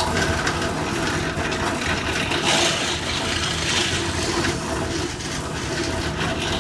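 Power woodworking tool running loudly under load, cutting into wood. It starts and stops abruptly.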